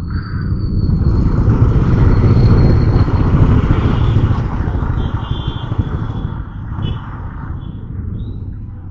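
Motorcycle pulling away from a traffic signal, its engine and rushing wind building to a loud rumble over the first few seconds as it gathers speed, then easing off.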